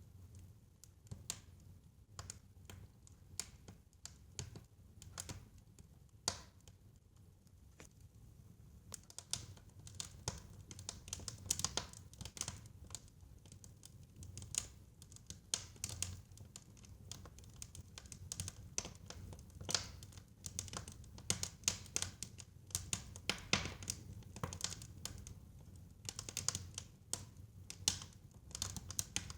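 Fire in a fireplace crackling: irregular snaps and pops, some sharper than others, coming more thickly in the second half, over a low steady rumble.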